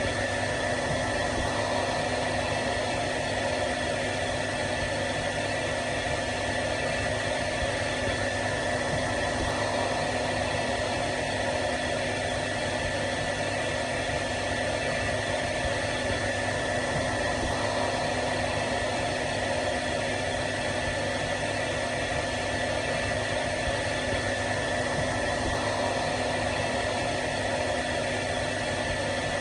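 Hair dryer (phon) running steadily on one setting: an even rush of air with a low motor hum and a thin high whine, unchanging throughout.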